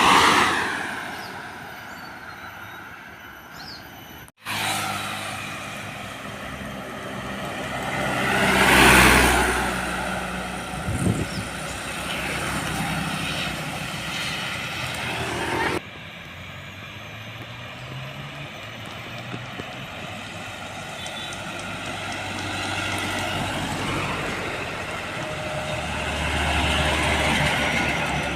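Heavy diesel trucks driving past on a road: one pass-by fading away at the start, a loud one swelling and fading about nine seconds in, and steady engine and tyre noise from passing traffic after that. The sound changes abruptly twice, at about four and sixteen seconds.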